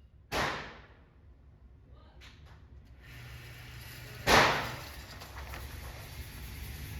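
Two gunshots about four seconds apart, the second louder, each with a short echoing tail, then another shot right at the end.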